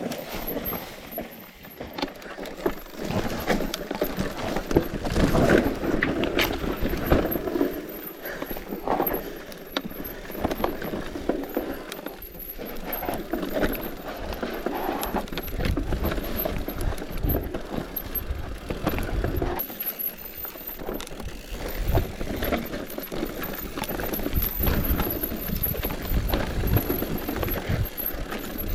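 Bicycle rolling downhill over rough ground: tyres on stones and dirt, with irregular knocks and the rattle of the frame and chain, and a low rumble of wind on the microphone.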